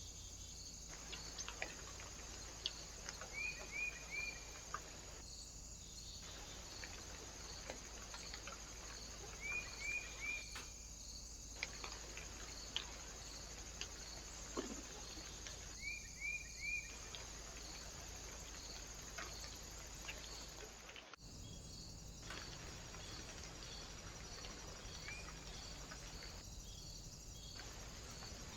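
Faint small-bird chirps in quick groups of three, repeated several times, with scattered light taps and clicks over a trail camera's steady electronic hiss and faint regular ticking. The sound cuts out briefly about three-quarters of the way through.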